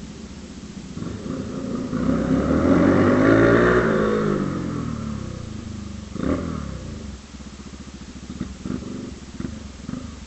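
Motorcycle engine revving up, its pitch climbing to a peak about three seconds in and then falling away as the throttle eases off. A short sharp blip follows a few seconds later, then the engine runs on at a lower, steady speed.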